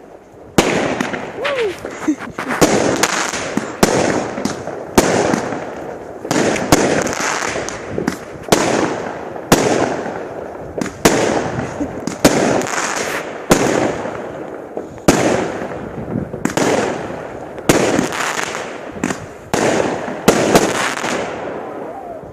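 Multi-shot firework cake (battery) firing, one loud bang about every second, each followed by crackling that fades out; the shots stop near the end.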